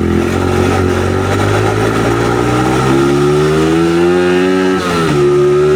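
Dirt bike engine under way, its pitch climbing steadily as the bike accelerates, then dropping sharply about five seconds in at a gear change and holding steady after.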